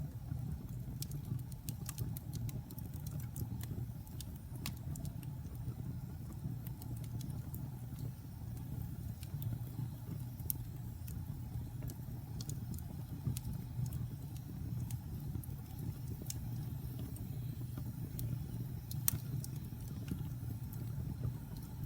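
Fire burning in a fireplace: a steady low rumble of flames with scattered sharp crackles and pops, one louder pop near the end.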